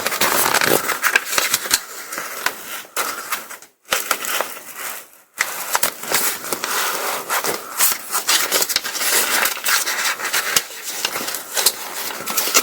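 Paraglider ripstop nylon crinkling and rustling with many small crackles as the fabric is handled during a patch repair. It goes quiet twice for a moment around four and five seconds in.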